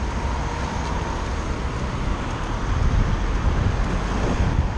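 Wind rushing over the microphone and road noise while cycling along a road, with motor traffic going by; the noise swells a little about three seconds in.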